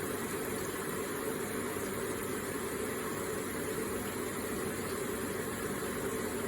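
Electric water feature running, its water trickling and splashing in a steady, unbroken flow.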